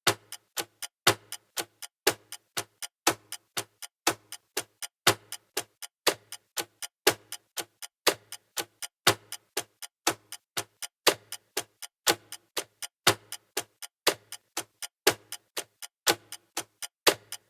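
Clock ticking fast and evenly, about four to five ticks a second, with a louder tick about once a second.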